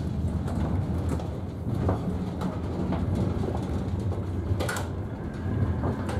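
The inside of a moving double-deck passenger train car: a steady low running rumble with scattered light clicks and rattles, and a brief sharp noise about three-quarters of the way through.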